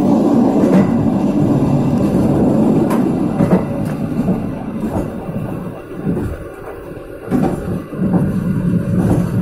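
Passenger train carriages running along the track: a steady rumble of wheels on rail with a few sharp clicks. About six seconds in the rumble drops quieter for a moment, then picks up again.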